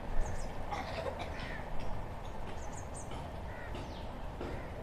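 Birds calling, with short high chirps scattered through, over a steady low rumble.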